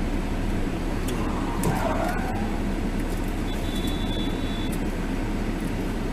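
Steady road and engine rumble of a car driving, heard from inside the cabin. About three and a half seconds in, a thin high tone sounds for about a second.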